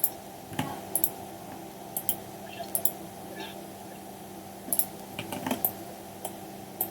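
Computer mouse and keyboard clicks while working at a computer, irregular and often in quick pairs, over a steady low electrical hum.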